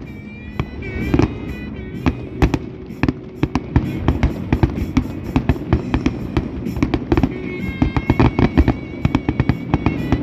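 Fireworks finale: a dense, irregular barrage of sharp bangs, several a second, with high steady tones drawn out over them about a second in and again in the second half.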